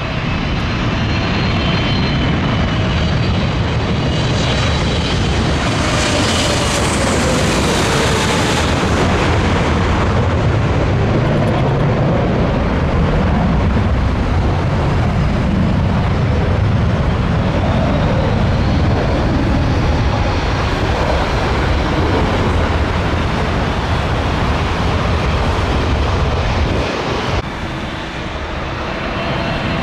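Boeing 777-300ER airliner passing low overhead on final approach, its GE90 jet engines making a loud, steady noise. A hiss swells and whining tones fall in pitch as it goes by. The sound cuts abruptly near the end to another jet.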